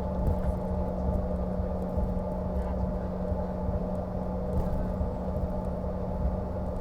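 Steady cabin drone of a CRJ-550 regional jet's rear-mounted GE CF34 turbofans at constant power: an even low rumble with a steady hum on top, unchanging throughout.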